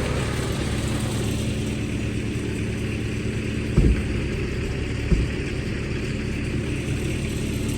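Engine idling steadily, left running to warm up in the cold, with two short knocks about four and five seconds in.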